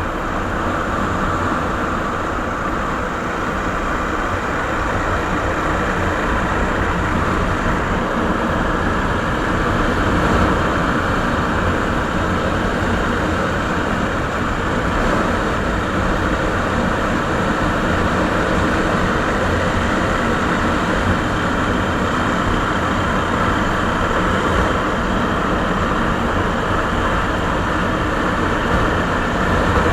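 Suzuki Savage's 650 cc single-cylinder four-stroke engine running steadily through its stock exhaust muffler.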